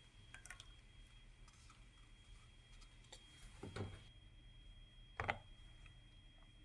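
Near silence in a kitchen, broken by two faint knocks of dishes or utensils being handled, a little under four seconds in and again just past five seconds.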